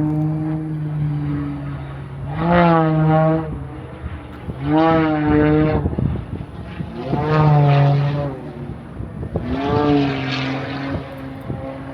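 A propeller airplane's engine drones overhead, with four surges in loudness, each about a second long, as the pitch rises and falls back.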